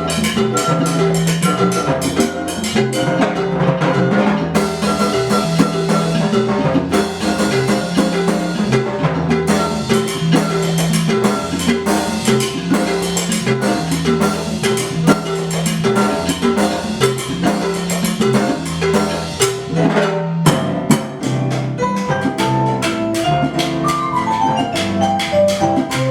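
Live percussion ensemble playing: drums keep a repeating rhythmic pattern under a part of short, struck pitched notes, with a descending run of notes near the end.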